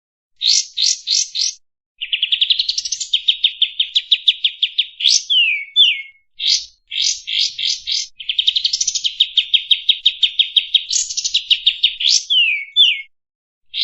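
A kapas tembak songbird singing its standard song in repeated phrases. Each phrase is a few quick sharp notes, then a long fast trill that climbs into rising sweeps, then a couple of downward-slurred whistles. The whole pattern plays twice.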